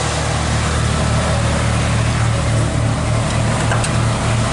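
1985 Ford F-250's engine idling steadily with a low, even drone; it runs smoothly, freshly tuned up.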